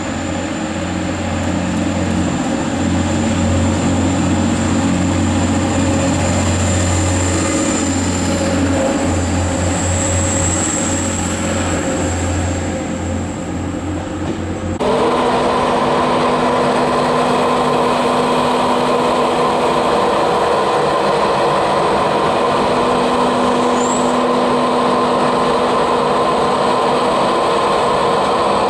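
Diesel engine of a Class 185 diesel multiple unit running with a deep, steady throb at the platform. About fifteen seconds in the sound cuts suddenly to an East Coast express train's steady hum with several held tones.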